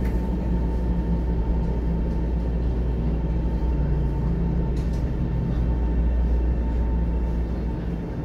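Cabin noise of an electric commuter train running through an underground tunnel: a steady low rumble with a faint constant whine above it.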